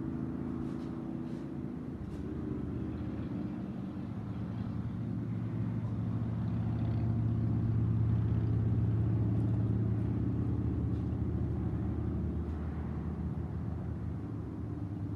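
A motor vehicle's engine running close by: a low, steady hum that swells about halfway through and then eases off.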